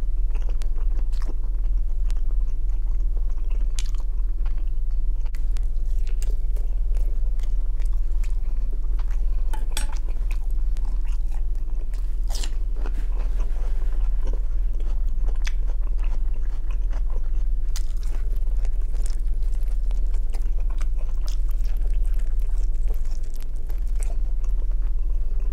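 A man chewing and biting into pieces of grilled shashlik meat, with many scattered short clicks and smacks of the mouth, over a steady low hum.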